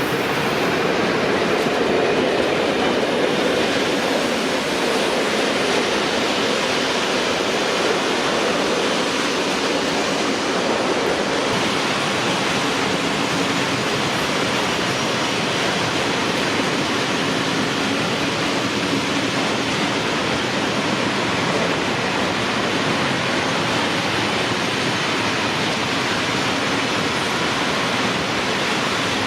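A train passing on the line, its wagons making a steady rolling noise of wheels on rails that holds level throughout.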